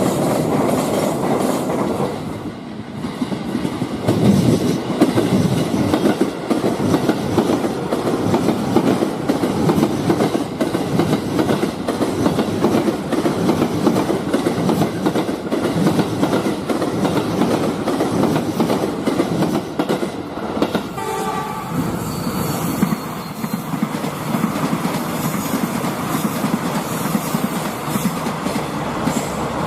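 Miniature model train running on its track, rattling steadily, with a brief horn sounding about two-thirds of the way through.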